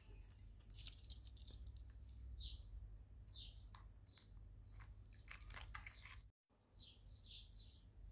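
Faint short bird chirps, several times and a quick run of three near the end, with a few soft clicks from a plastic snack cup being handled. The sound cuts out for a moment a little after six seconds in.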